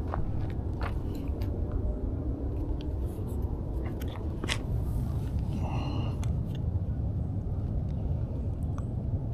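Steady low rumble on a body-worn action camera's microphone, with scattered light clicks and rustles from walking and handling gear. A short higher-pitched sound comes about six seconds in.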